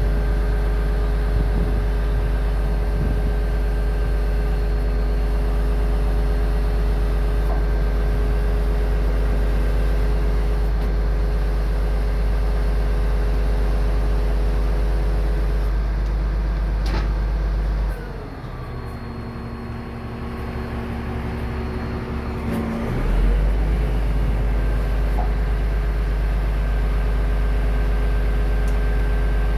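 Scania R500 truck's engine running steadily with a deep, even hum. About two-thirds of the way through, the hum drops and a different steady tone holds for about five seconds before the earlier steady running returns.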